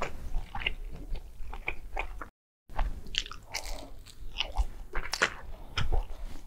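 Close-up biting and chewing of fried chicken nuggets, with irregular crisp crunches and wet mouth clicks. The sound cuts out completely for a moment about two seconds in.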